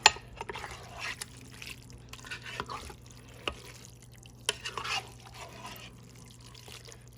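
Spaghetti in tomato sauce being stirred in a pot: wet, saucy squelching with several sharp clinks of the utensil against the pot, the loudest right at the start.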